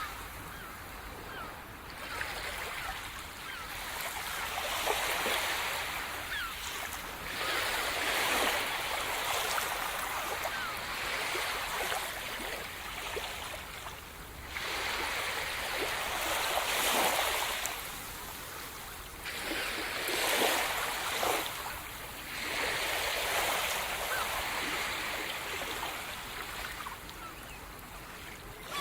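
Sea surf washing onto a shore, the hiss swelling and ebbing as waves break every few seconds.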